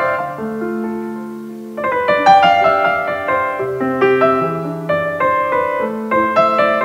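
Background piano music: a slow piece of held bass notes under melody and chords, thinning briefly about half a second in and filling out again about two seconds in.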